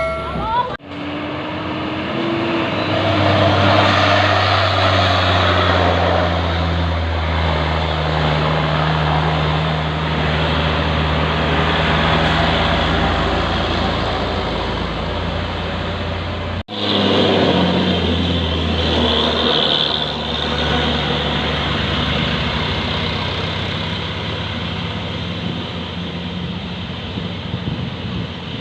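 Diesel engine of a loaded Hino Ranger dump truck running under load, a steady low drone. It breaks off abruptly twice, about a second in and about halfway through.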